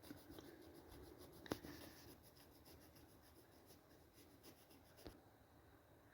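Faint scratching of a pen drawing an outline on a sheet of vinyl, with a sharp tap about a second and a half in and another near the end.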